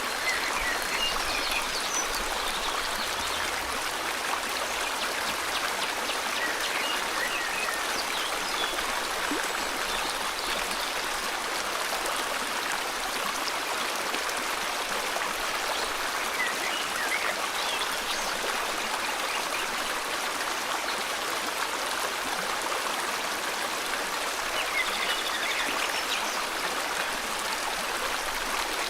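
River water flowing steadily, a constant rushing hiss, with a few faint bird chirps now and then over it.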